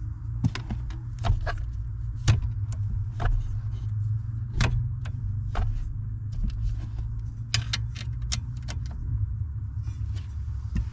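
Scattered sharp metallic clicks and clinks of hand tools and parts being worked, irregularly spaced, over a steady low hum.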